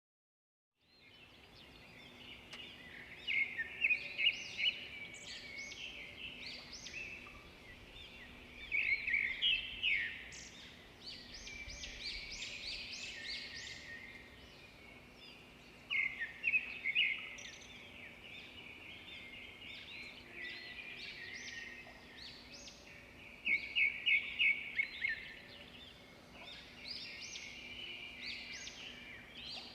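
Songbirds singing, a busy chorus of chirps and trills, with louder bursts of quick repeated notes every several seconds. It begins after about a second of silence.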